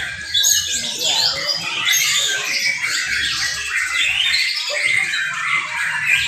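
Several young white-rumped shamas singing at once: a dense, overlapping tangle of rapid whistles, trills and chattering phrases.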